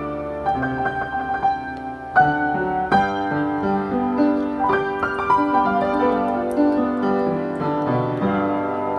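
Solo piano playing a slow, gentle ballad melody over sustained chords, in an instrumental arrangement of a 1970s Korean folk song.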